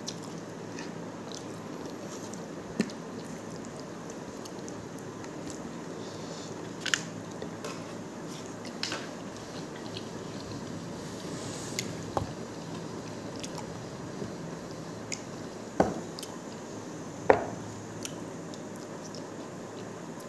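Close-miked eating sounds: rice and meat curry being chewed, eaten by hand, with about a dozen scattered sharp wet clicks and smacks over a steady low hiss.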